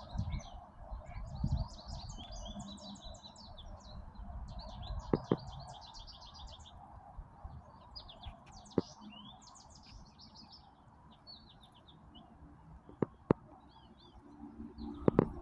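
Songbirds chirping and singing in quick overlapping phrases, busiest in the first ten seconds or so and thinning out after, over a steady background hiss. A few sharp clicks break in, two close together near the end.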